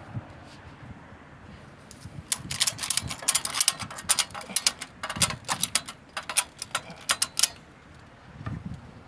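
Rapid, irregular sharp metallic clicks and rattles from tow tie-down hardware being worked, starting about two seconds in and lasting about five seconds.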